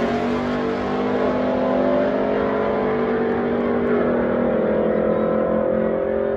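Pickup truck engine running hard at high revs, its pitch jumping up about a second in and again around four seconds in.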